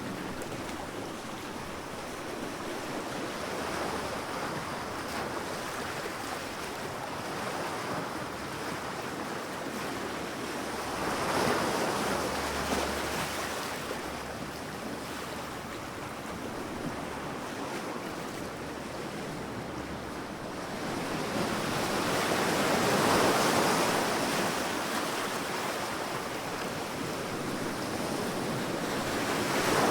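Sea waves breaking on a beach, a steady wash of surf that swells as larger waves break, about a third of the way in, a little past two thirds, and again near the end.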